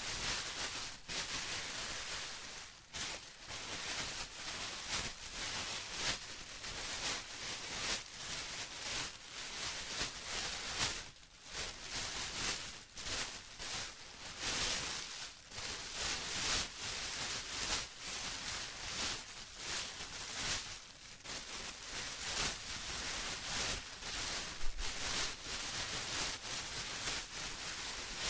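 Plastic being rustled and crinkled continuously, an uneven crackling that swells and dips every second or so.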